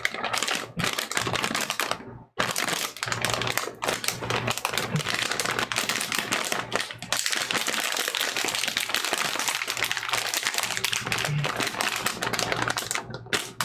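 A small bag of Calbee pizza potato chips crinkling and crackling as it is squeezed and pulled at by hand, in an attempt to tear it open that does not succeed. There are short pauses about two seconds in and near the end.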